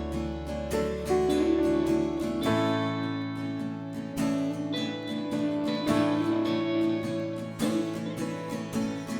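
Instrumental break in a live country/Americana band song: strummed acoustic guitar over bass and held notes, with no singing.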